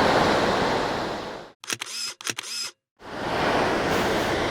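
Rushing river water fades out. In the silence that follows, a camera shutter fires twice in quick succession, then the river noise fades back in.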